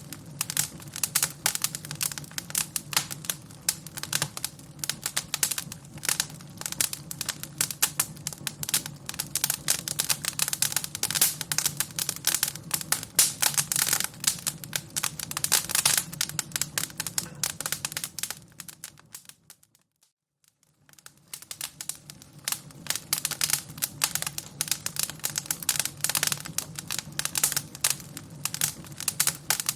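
Fire crackling: a dense, irregular run of sharp pops and snaps over a low steady hum. About two-thirds of the way through it fades out to near silence for a second, then fades back in.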